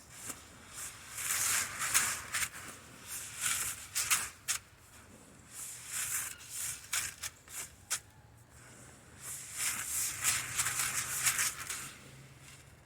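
Dry chicken scratch grain rustling and rattling as hands scoop and stir through it, in irregular bursts with sharp little clicks of grain.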